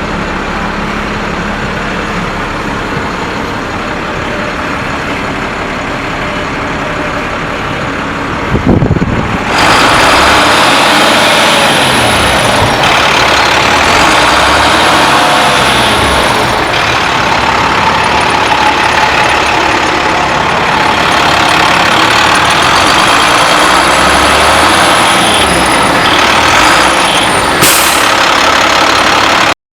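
Diesel truck engine running steadily. About a third of the way in there is a sudden loud burst, and then it runs much louder, with its pitch rising and falling again and again.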